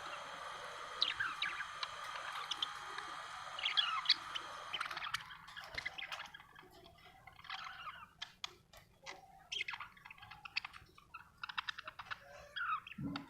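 Budgerigar chirping and chattering: short falling chirps at first, then from about five seconds in a rapid run of clicky, twittering notes.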